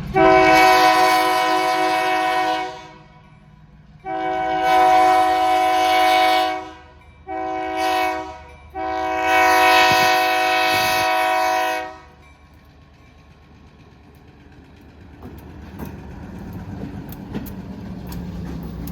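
Locomotive air horn of an EMD MP15 switcher sounding the grade-crossing signal: two long blasts, one short, and one long, each a chord of several steady tones. After the horn, a lower rumble of the approaching train grows louder near the end.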